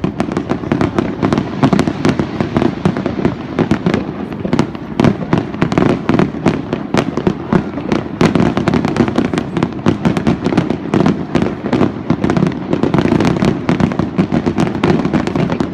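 Fireworks display in a dense, continuous barrage: many sharp bangs and crackling bursts a second, overlapping without a break.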